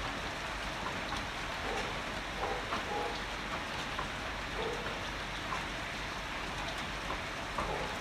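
Heavy rain falling steadily, with scattered individual drops tapping on a nearby surface.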